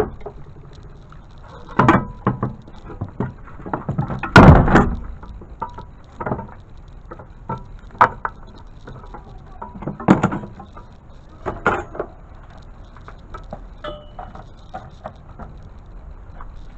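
A string of irregular knocks and clatters, with louder thumps about 2, 4½, 8, 10 and 12 seconds in and lighter taps between.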